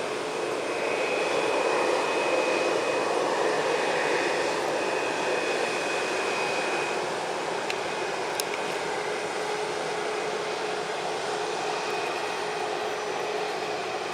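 Jet airliner's engines running with a steady rushing noise and a thin whine. The noise swells about two seconds in and then slowly eases.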